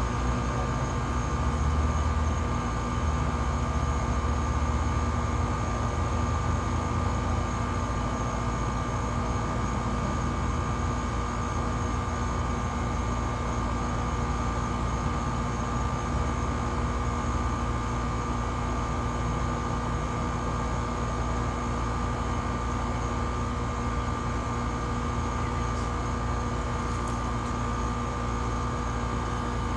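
A 2010 WeatherKing Value 1.5-ton air conditioner's outdoor unit, with its Copeland scroll compressor, running steadily: a constant hum with several fixed tones over the condenser fan's rumble.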